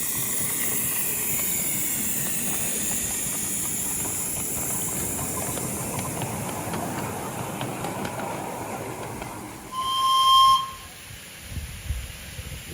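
Miniature steam locomotive hissing steam, fading over the first several seconds, then one short steam-whistle toot about ten seconds in, the loudest sound. A few low knocks follow.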